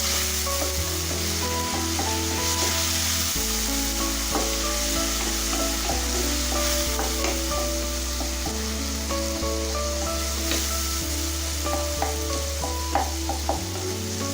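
Onion-tomato masala with ground spices sizzling in hot oil in a pan, stirred with a spatula that gives scattered light scrapes and taps. Background music with held low bass notes plays underneath.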